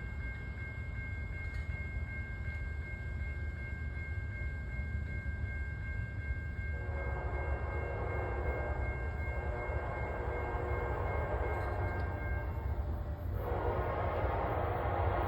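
A train's air horn sounds a long blast about seven seconds in, then a second, louder blast near the end as the train draws closer, over a steady low rumble.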